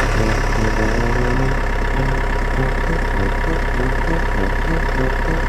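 An engine running at a steady idle, with a constant low hum.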